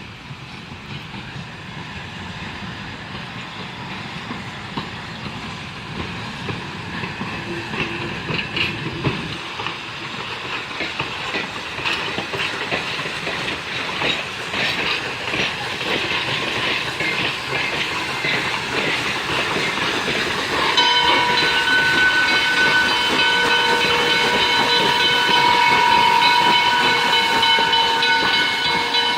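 Pennsylvania Railroad No. 643, a 1901 steam switcher locomotive, drawing closer: clicking and clattering of wheels and rods with steam hissing grow louder. About 21 seconds in its steam whistle sounds one long steady blast that lasts about eight seconds.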